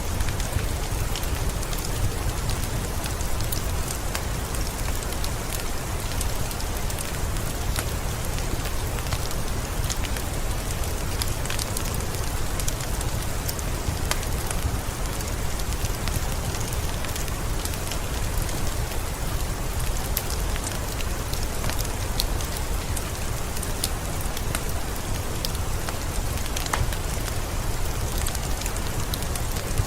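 Steady rain falling, a constant hiss with scattered sharp drop ticks, mixed with the occasional crackle of a wood fire in a fireplace.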